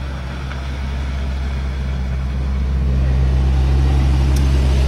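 Vehicle engine running with a steady low hum that slowly gets louder.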